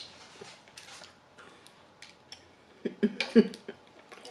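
Eating noises from the mouth while chewing pie: soft wet clicks and smacks, then a louder cluster of chewing and a short hummed "mm" about three seconds in.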